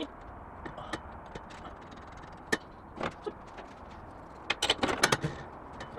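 Scattered clinks and knocks of tools and car parts being handled: single knocks about two and a half and three seconds in, and a quick cluster of them between four and a half and five seconds in, over a faint low hum.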